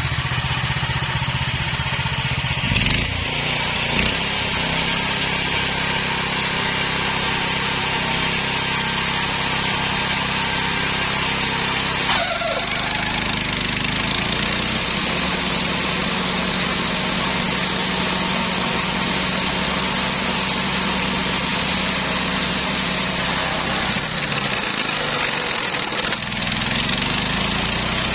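Homemade 80 cm flail mower with a 13 HP engine running steadily while its flail shaft chops through grass, with small shifts in engine pitch as the load changes.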